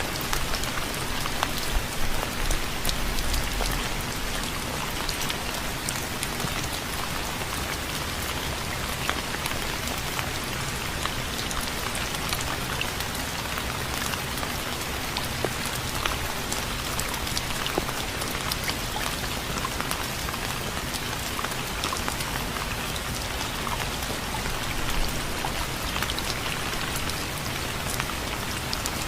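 Steady rain pattering onto a hard surface, with many sharp drop hits over a constant hiss.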